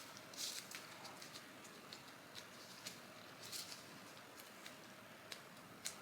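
Faint handling noises of dental impression putty being pressed into a plastic impression tray: scattered small clicks and taps, with two brief rustles about half a second and three and a half seconds in and a sharper click near the end.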